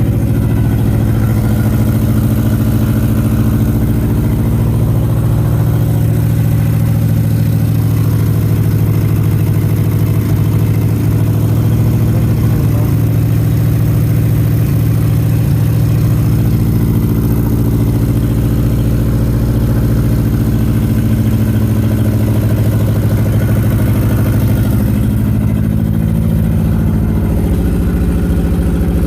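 1987 Nissan 200SX S12's engine idling steadily, its tone shifting slightly now and then.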